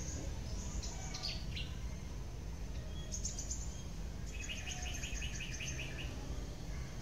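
Small birds chirping: a few quick falling notes in the first second and a half, a short trill near three seconds, then a fast series of evenly repeated notes, about six a second, from about four to six seconds in, over a steady low rumble.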